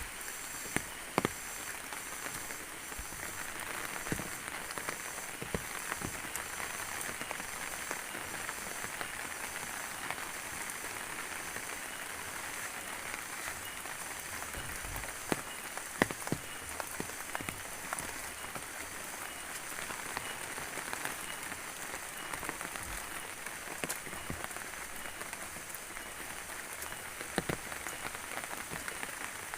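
Steady rain falling, with scattered sharp drips and taps of single drops.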